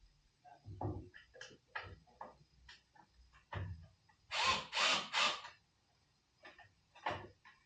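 Tools and hardware being handled at a tool box: a series of clicks and knocks, then three loud rasping bursts in quick succession about four and a half seconds in.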